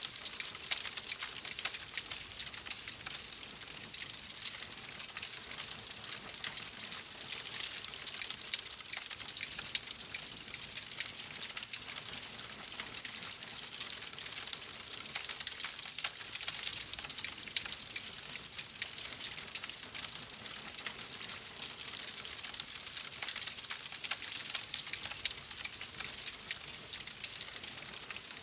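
Wood fire crackling steadily: a dense run of small snaps and pops over a soft hiss.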